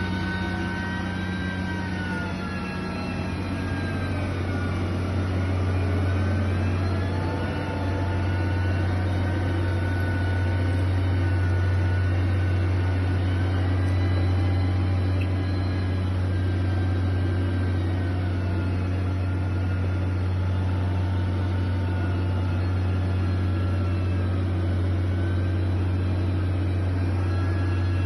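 Heavy construction machine engine running steadily, with a low hum and a whine that slowly rises and falls in pitch.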